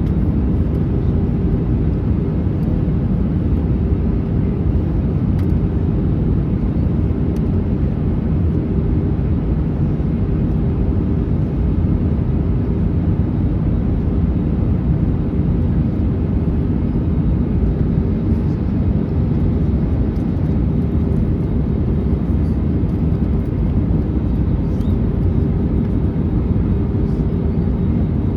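Steady cabin noise inside an Airbus A321neo on its descent: an even, low rumble of airflow and engines with a faint steady hum, unchanging throughout.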